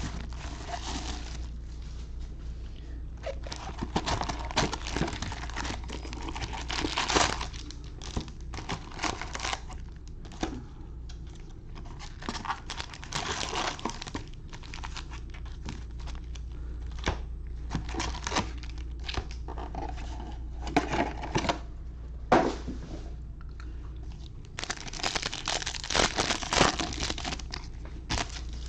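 Plastic wrapping crinkling and tearing in irregular bursts with sharp clicks: a box of baseball-card packs being unwrapped and the foil packs torn open, over a steady low hum.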